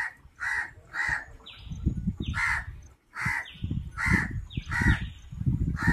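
A bird calling over and over, about eight short calls roughly half a second apart, with a few short falling notes in between. A low rumble sits under them from about a second and a half in.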